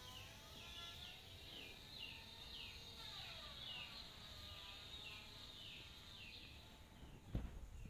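Faint birdsong: one bird repeats a short falling chirp about twice a second, with softer gliding whistles from other birds behind it. Near the end come a few sharp knocks.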